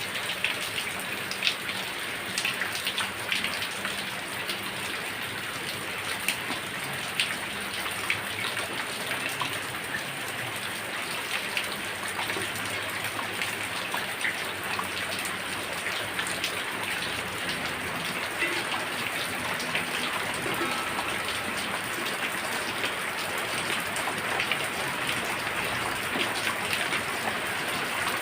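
Heavy rain falling steadily, with many individual drops striking close by as sharp ticks over the dense hiss of the downpour.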